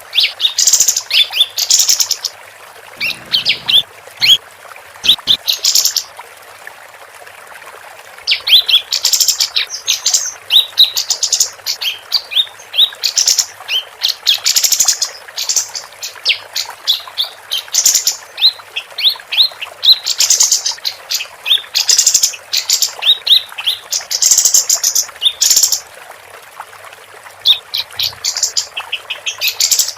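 Female kapas tembak, an Indonesian songbird, singing long runs of quick high chirps and trills, broken by a couple of short pauses.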